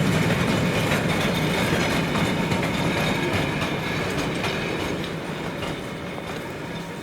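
Train rolling past on the rails, wheels clacking, the sound steadily fading as it moves away.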